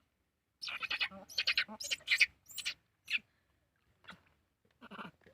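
Baby monkey giving a rapid run of short, high-pitched calls starting about half a second in and lasting some two and a half seconds, then a few fainter calls near the end.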